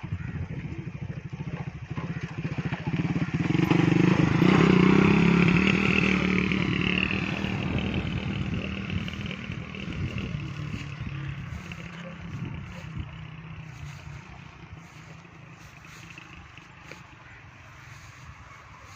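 Motorcycle engine passing: it grows loud a few seconds in, peaks, then fades slowly as the bike moves away.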